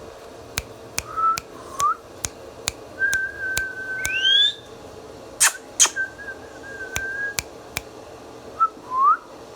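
Whistling with short upward-sliding notes and one longer held note that sweeps sharply upward, among a run of sharp clicks, with two louder snaps in the middle.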